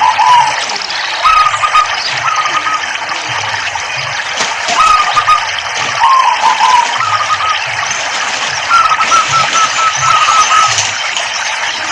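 Steady trickling, splashing water with a zebra dove (perkutut) cooing over it in short runs of quick, clear notes, repeated several times.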